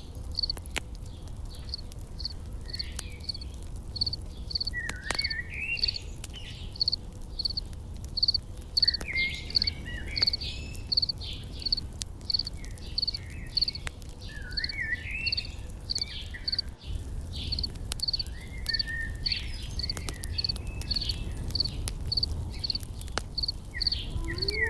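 An insect chirps steadily about three times a second while a songbird sings short warbled phrases every few seconds, over a low steady rumble with an occasional sharp crackle from a campfire.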